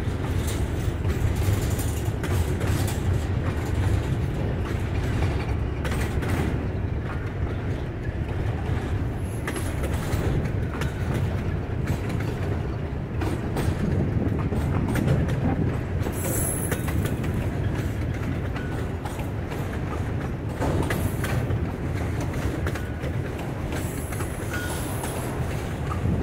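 Freight train cars rolling past: double-stack container well cars and then autorack cars. A steady rumble of steel wheels on rail, with clickety-clack over the joints and brief high squeals a couple of times.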